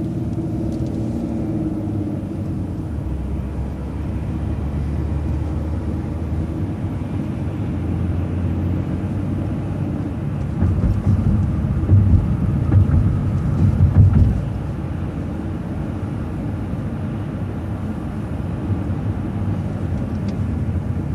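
Road vehicle driving, with steady engine and road noise heard from inside; a louder, uneven low rumble runs from about eleven to fourteen seconds in.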